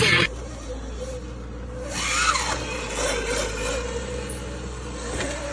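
Background music cuts off just after the start, leaving a small off-road vehicle engine running, with a brief rev about two seconds in.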